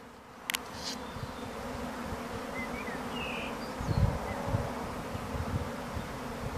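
Honeybee swarm buzzing steadily as a prime swarm leaves the hive and takes to the air. A sharp click about half a second in, and low rumbles from about four seconds on.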